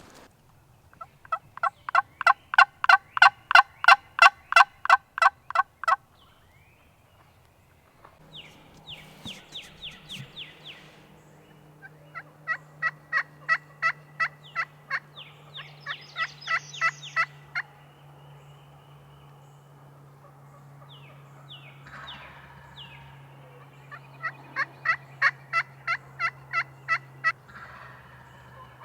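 Wild turkeys calling in several long runs of evenly spaced notes, about five a second, from hens roosted overhead. The first run, in the opening seconds, is the loudest.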